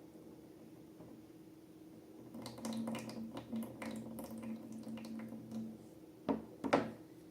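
Slime being handled: a run of wet squishing and small crackling clicks, then two sharper, louder squelches near the end.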